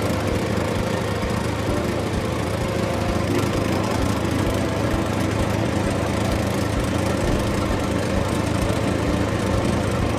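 A small motor running steadily at an even speed, with a fixed low hum and a constant buzz.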